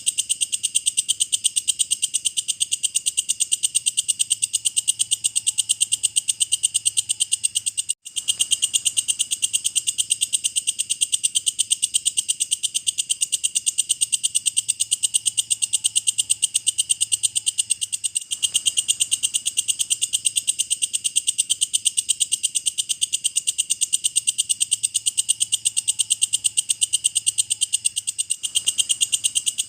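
Walang kecek (belalang kecek) insect singing: a continuous, rapid, rhythmic high-pitched chirping, with brief dropouts about every ten seconds.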